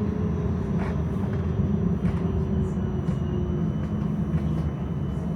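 Tram running along the tracks: a steady low rumble with a faint motor whine that fades out about three and a half seconds in, and a few light clicks.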